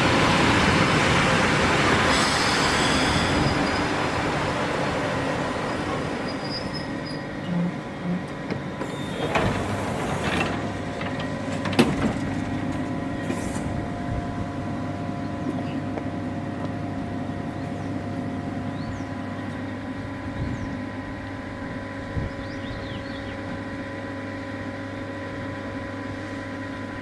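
Train rumble that fades away over the first several seconds as the train moves off, leaving a steady electrical hum. A few short knocks and a sharp click come between about eight and twelve seconds in.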